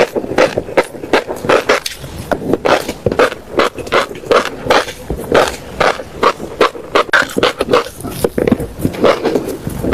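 Close-miked chewing of crunchy seeds, a steady run of crisp crunches about three times a second.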